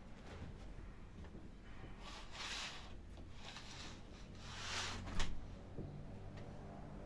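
Household cleaning sounds: three swishing strokes, then a sharp knock a little after halfway.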